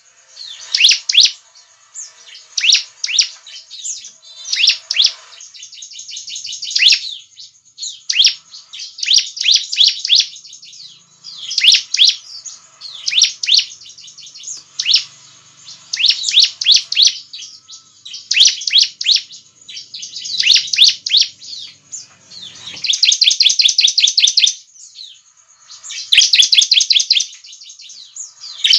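Bar-winged prinia (ciblek) singing: loud bursts of rapid, high chirps repeated every second or two. From about three quarters of the way in, the phrases become longer, denser trills.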